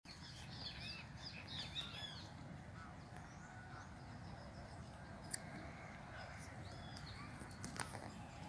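Small birds chirping in the trees, with a quick run of arching chirps in the first two seconds and scattered calls after, over a steady low background rumble. Two sharp clicks, one about halfway through and one near the end.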